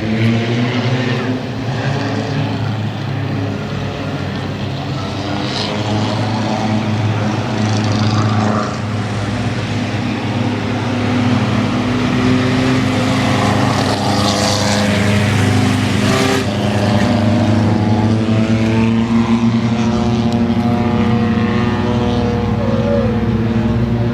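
A field of mini trucks racing together, several engines running hard at once, their revs rising and falling.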